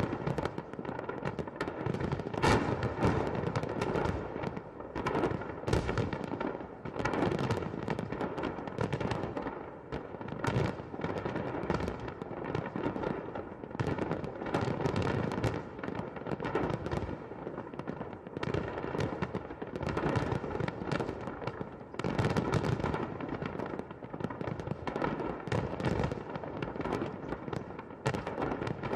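Fireworks salute: a dense, irregular run of bangs and booms, several a second, each trailing into an echo.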